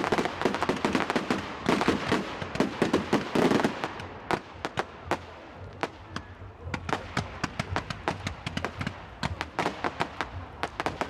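Aerial fireworks going off: a dense barrage of bangs and crackle for the first few seconds, then many separate sharp cracks.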